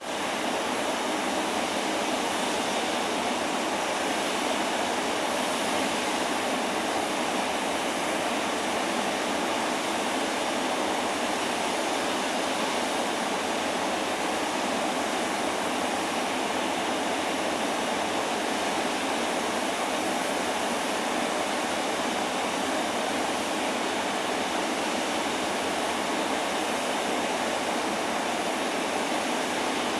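Waterfall rushing steadily, an even roar of falling water with no breaks or distinct events.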